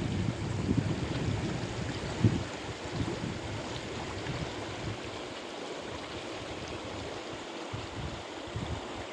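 River water flowing with a steady rushing sound, with a few low, uneven bumps in the first three seconds.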